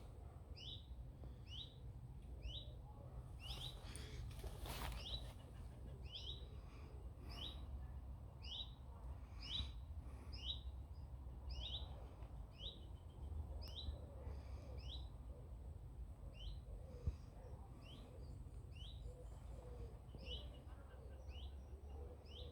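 A songbird singing a short two-note phrase, a higher note then a lower one, repeated steadily about once a second.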